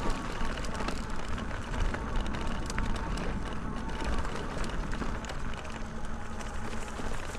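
E-bike riding along a sandy dirt trail: steady tyre and ride noise with many small crackles, over a low rumble of wind buffeting the microphone.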